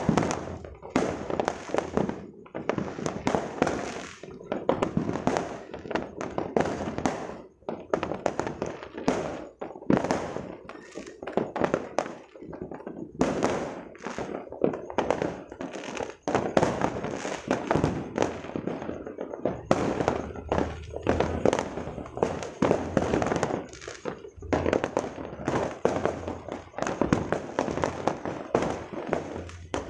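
Fireworks going off nonstop: a dense run of bangs and crackles with hardly a pause between them.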